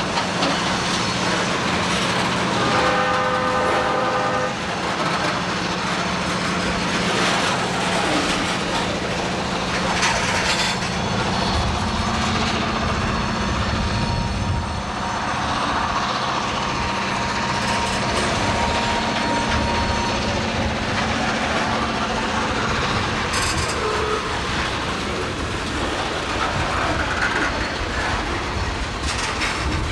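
Diesel freight train passing, its locomotive engine running with a steady drone and the rail cars rolling over the track. The locomotive's horn sounds one short blast about three seconds in.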